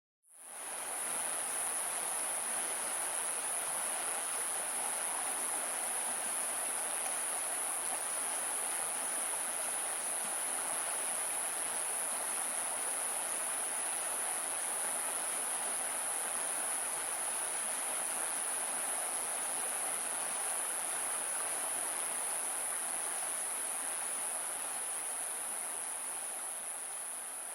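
Steady rainfall with a continuous high-pitched drone over it, fading in at the start and fading out near the end.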